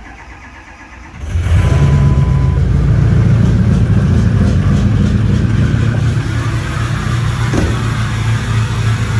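Pickup truck's engine firing up about a second in and settling into a steady idle.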